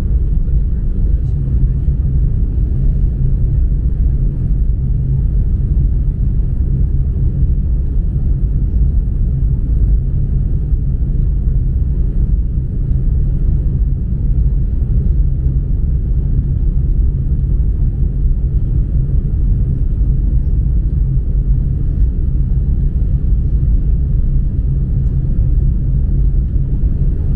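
Chinese high-speed bullet train running at speed: a steady, deep rumble.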